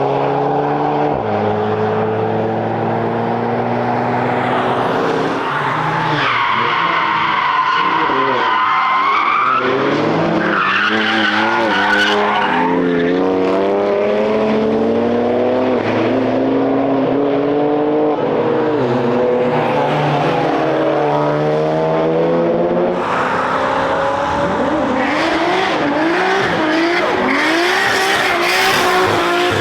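Cars passing at speed on a racetrack, engines revving up and down through gear changes. Tyres squeal for a few seconds about a fifth of the way in, and briefly again soon after.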